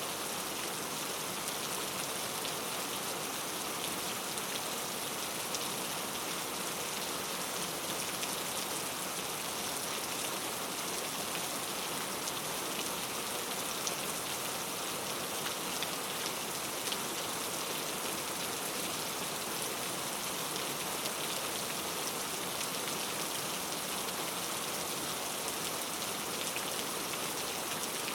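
Steady rain falling on forest foliage, an even hiss with scattered close drop ticks.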